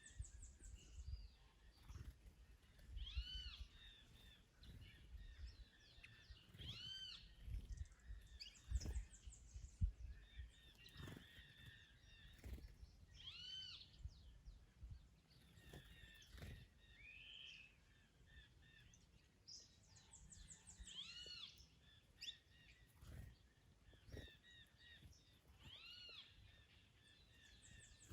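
Faint birdsong in a garden: one bird repeats a short phrase of arched notes every few seconds, with other small chirps around it. Gusts of wind rumble on the microphone now and then.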